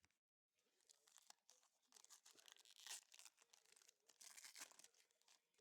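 Faint tearing and crinkling of a trading-card pack wrapper being opened by hand, as scattered rustles that are loudest about three seconds in.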